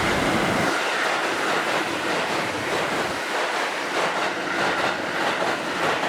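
A train passing through the station at speed: a steady, loud rush of wheels and air, with rapid clicks over the rail joints.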